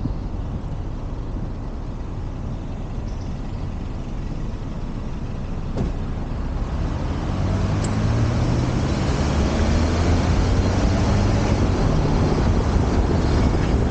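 City street traffic: a steady noise of motor vehicles, with a heavy vehicle's low engine hum growing louder about halfway through.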